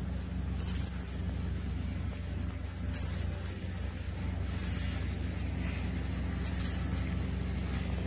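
A small bird giving short, high-pitched chirps, four times at roughly two-second intervals, over a steady low hum.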